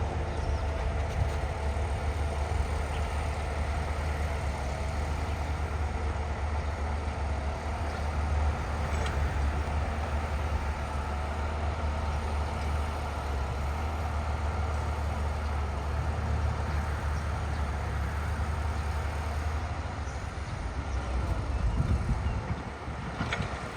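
Diesel engine of heavy earthmoving machinery running steadily with a deep, low rumble. The sound shifts and briefly swells near the end.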